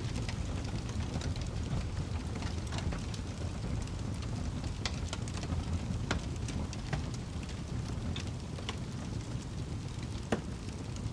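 Wood fire crackling: irregular sharp pops and snaps over a steady low rumble, with one louder pop about ten seconds in.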